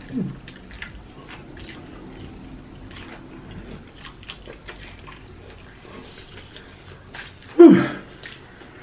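Close-up eating sounds of fried chicken drumsticks: chewing with many small wet mouth clicks and smacks. About three-quarters of the way in there is one brief, loud voiced sound that falls in pitch, like a short hum or grunt.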